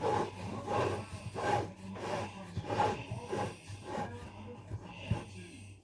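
Fingers pressing and rubbing a shortcrust pastry lid down onto the rim of a pie dish, in a run of soft, repeated strokes about two a second.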